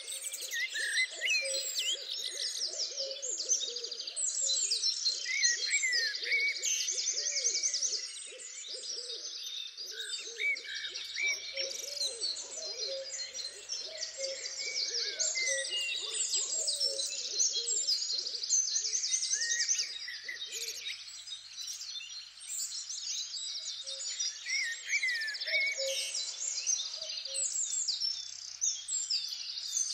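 Dense chorus of birds singing and calling over one another, with high trills and whistles throughout. A lower, rapidly repeated call runs underneath for about the first two-thirds, then fades out.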